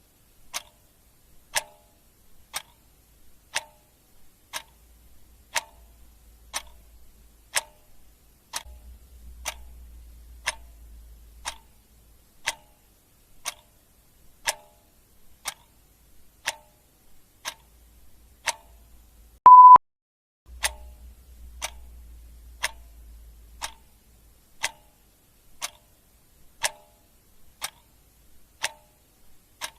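Clock ticking sound effect, one sharp tick about every second in an even tick-tock rhythm. About two-thirds of the way through, a single short beep sounds, the loudest sound.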